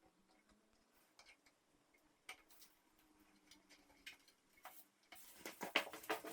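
Scattered light clicks and knocks as door frame parts are handled, turning into a quicker run of knocks and taps near the end.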